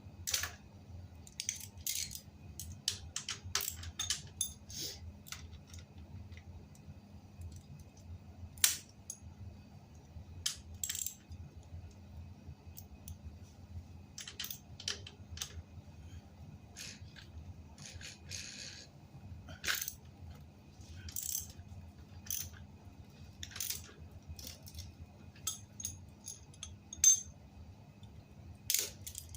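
Irregular sharp metallic clicks and clinks of small hard objects being handled, over a steady low hum; two clinks, about a third of the way in and near the end, are louder than the rest.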